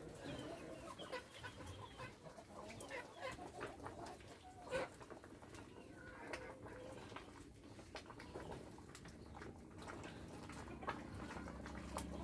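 Chickens clucking quietly and on and off, with a few small knocks.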